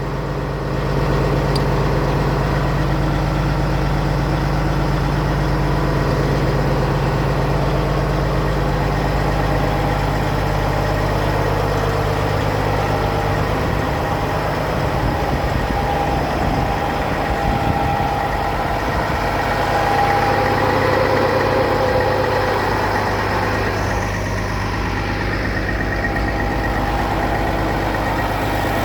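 Diesel engine of a Western Star 4900SA hydrovac truck idling steadily: a continuous low drone with a faint steady whine above it. The drone wavers for a few seconds around the middle, then settles again.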